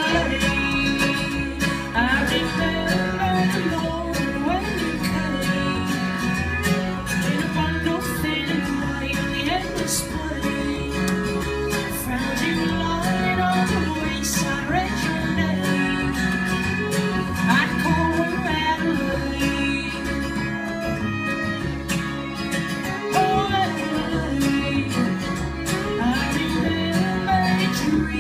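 Acoustic country-folk string band playing: plucked guitar over a steady bass, with a wavering melody line on top, in a bluegrass style.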